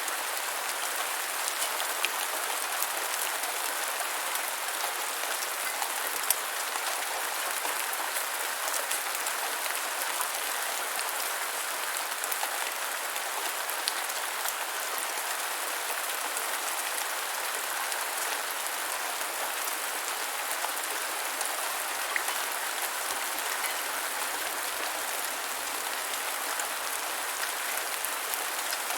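Steady gentle rain falling, an even hiss scattered with small drop ticks and a few sharper single drips.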